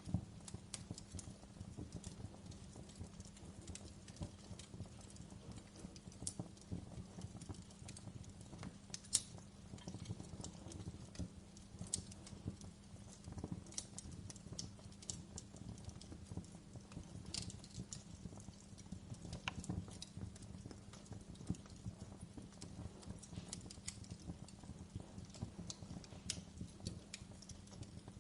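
Wood fire burning in a fireplace, crackling steadily with scattered sharper pops, the loudest about nine seconds in.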